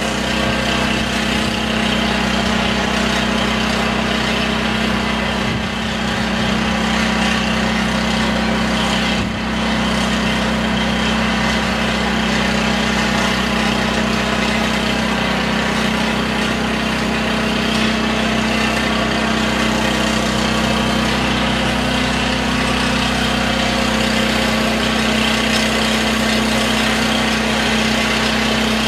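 A steady machine drone: a constant low hum over an even hiss, with no change in pitch or level.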